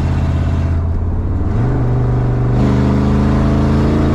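Fuel-injected Ford 302 V8 running steadily. About a second and a half in, its pitch steps up slightly, and a second, higher tone joins about a second later.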